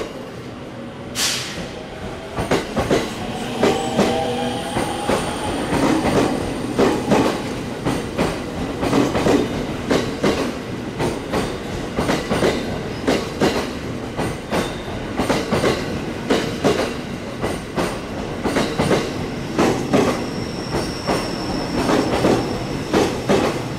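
JR commuter electric train moving along the platform, its wheels clattering over rail joints in a continuous run of clicks. A thin high wheel squeal comes in about four seconds in and again near the end.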